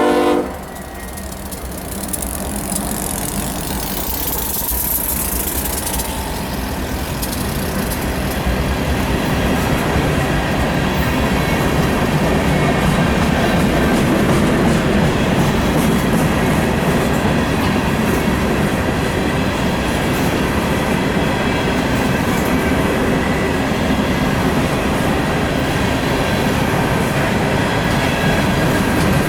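Coal train rolling past: a steady rumble and clatter of steel wheels on the rails, growing louder over the first several seconds and then holding, with a faint wheel squeal. A locomotive horn cuts off about half a second in.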